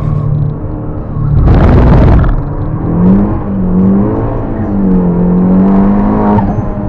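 Fiat Panda running a big Mitsubishi TD04 turbo, driven hard: a loud rushing noise for about a second starting near 1.5 s, then the engine note rising and falling several times, climbing again before dropping off near the end.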